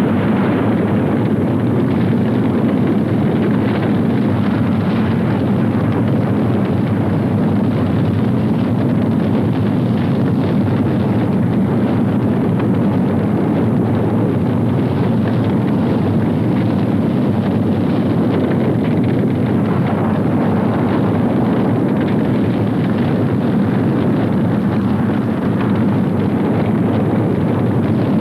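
Continuous low roar of a volcanic eruption, steady and dense, with a fine crackling running through it.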